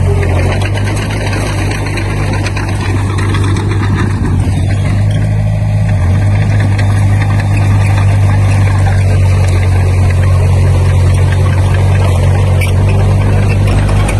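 Diesel engine of heavy construction equipment running steadily with a deep, constant drone.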